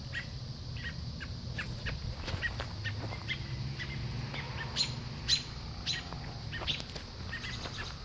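Parent birds giving short, sharp alarm calls, repeated irregularly, scolding over their grounded fledglings; two calls about five seconds in stand out louder.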